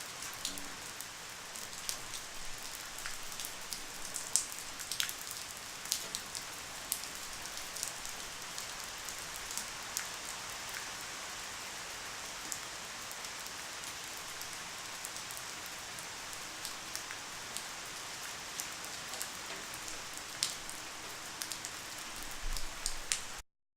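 Light, steady rain falling on a surface, a fine hiss with individual drops ticking through it. It cuts off abruptly just before the end.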